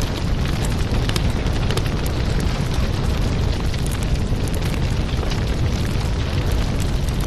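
Fireplace crackling: a steady low rumble of burning fire with irregular sharp pops and snaps scattered throughout.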